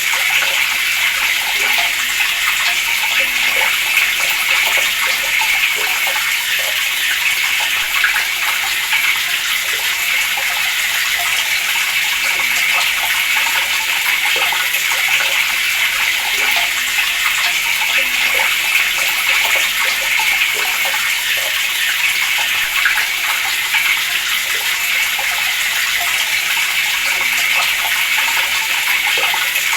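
Water running steadily from a tap, an even rushing splash that does not change.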